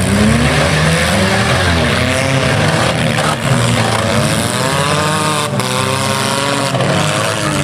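Several compact cars' engines revving up and easing off in the derby ring, their pitches rising and falling over one another.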